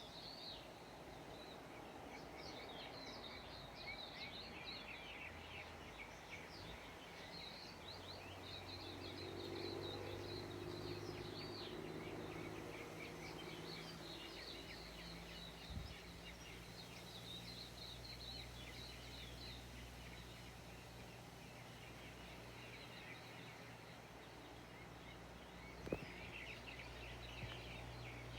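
Birds chirping and chattering in patches, over a steady low hum, with two short knocks, one about halfway and one near the end.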